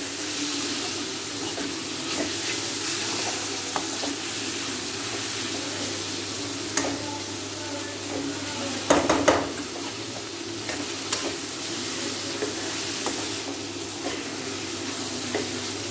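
Onion, tomato and bitter gourd peel masala sizzling in oil in a kadhai, stirred with a metal spatula that scrapes and taps against the pan. There is a steady frying hiss with scattered clicks from the spatula, and a brief louder clatter of strokes about nine seconds in.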